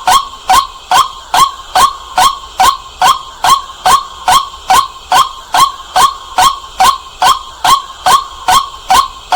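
White-breasted waterhen calling, a loud, even series of short 'kwak' notes, about two and a half a second, each rising slightly in pitch.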